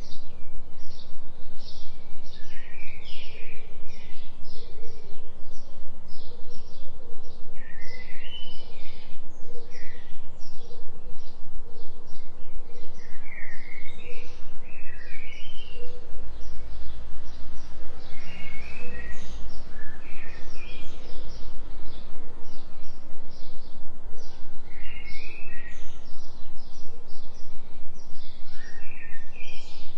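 Forest birds chirping and singing in many short calls, layered over a steady low drone of binaural-beat tones.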